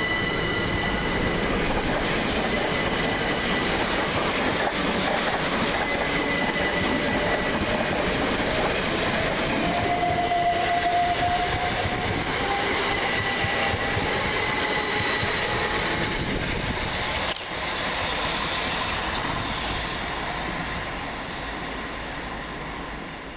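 Two coupled Class 377 Electrostar electric multiple units running through the station: a steady rumble of wheels on rail with a whine from the traction motors that rises in pitch partway through. The sound dies away near the end.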